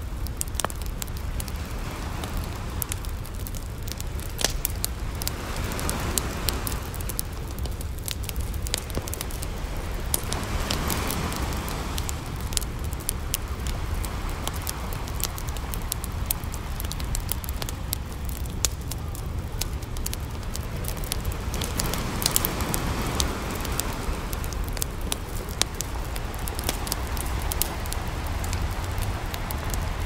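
Wood campfire crackling, with frequent sharp pops and snaps, over ocean surf: several waves swelling and washing in over a steady low rumble.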